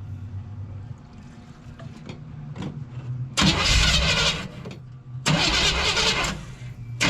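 A long-dormant Chevy engine cranked by the starter, then catching about three and a half seconds in and running loud and rough. It cuts out briefly twice and picks up again each time, running on fuel poured into the fuel pump because the fuel system is not yet feeding it.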